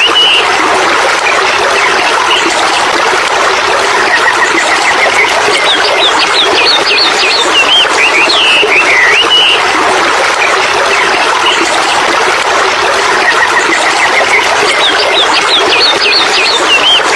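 Birds chirping and whistling over a steady rush of running water. A run of rapid chirps followed by swooping whistles comes twice.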